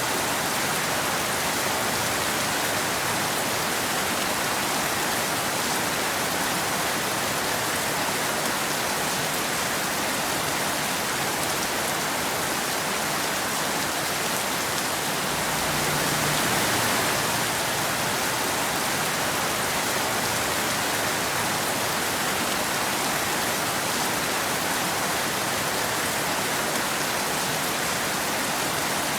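Steady rain falling on a road: an even, dense hiss, swelling slightly a little past halfway.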